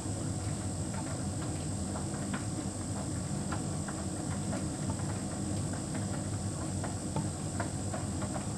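Hotpoint heat pump tumble dryer running: a steady low hum of the motor and turning drum, with faint scattered ticks.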